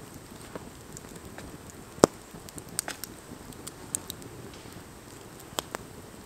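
Wood campfire crackling: a low steady hiss with a few sharp, irregular pops, the loudest about two seconds in.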